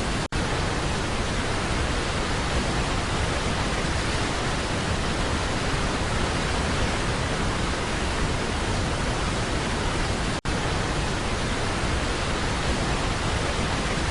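Steady, even roar of Niagara Falls' falling water heard from the tour boat, briefly cut out twice.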